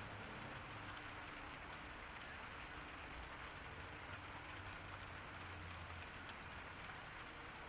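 Steady summer rain falling, an even hiss without a break, with a faint low hum underneath.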